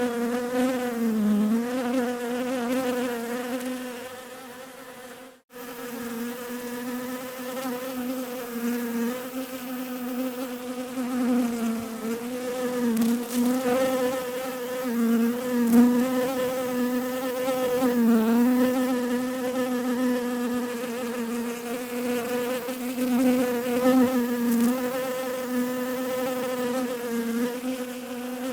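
Bees buzzing: a steady, wavering drone that fades out about four seconds in, stops for an instant, then picks up again.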